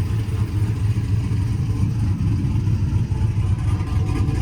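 Cammed pickup truck engine idling through an exhaust with the mufflers cut off, leaving only high-flow catalytic converters and an X-pipe; the idle is uneven and the note is fairly deep, yet not too loud.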